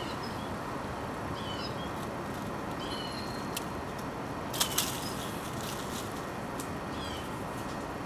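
Steady outdoor background noise with a bird's short high chirp repeating every second or two, and two sharp clicks in quick succession about halfway through.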